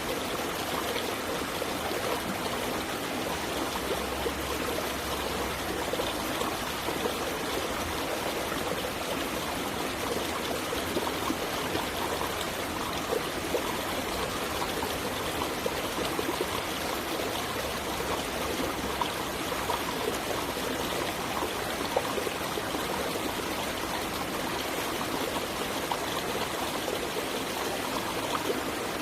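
Water flowing over rocks in a stream: a steady rushing with small splashes and trickles through it.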